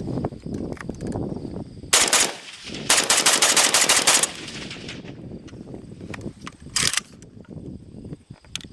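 Rapid gunfire at a shooting range: a short quick burst about two seconds in, then a longer fast string of shots lasting just over a second, and one more short burst near the end.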